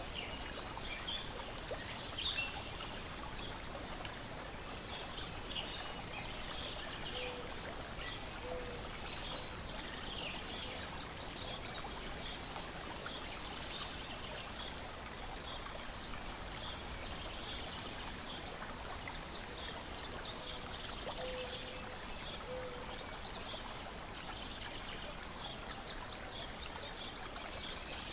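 Layered nature ambience: a steady wash of gently lapping and trickling lake water, with small birds chirping throughout. Twice, about a quarter and three quarters of the way through, a short run of low notes sounds under the chirps.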